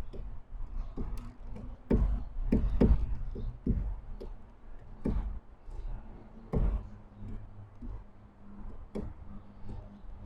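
Irregular knocks and taps on a bird feeder from birds pecking and landing on it, a dozen or so sharp strikes at uneven intervals.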